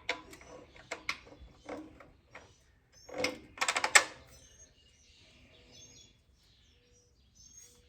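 Metal clinks and knocks of a bolt and hand tools being worked into the mounting of a small engine on a garden tiller, with a quick run of clicks about halfway. Small birds chirp faintly in the second half.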